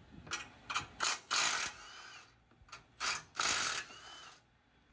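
Hand socket ratchet on an extension clicking in quick runs of strokes, three bursts with the longest near the end, as it backs out a bumper-bracket bolt.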